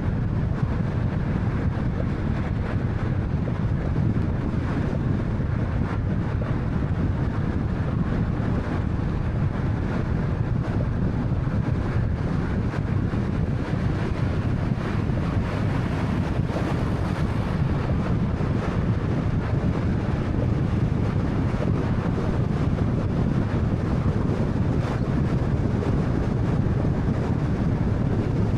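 Steady road and wind noise from a 2013 Honda Fit driving at a constant pace: a continuous low rumble with no clear engine note and no sudden sounds.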